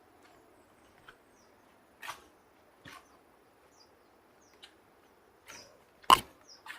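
Scattered short bird chirps over a faint steady hiss, with a few knocks or scuffs, the loudest about six seconds in.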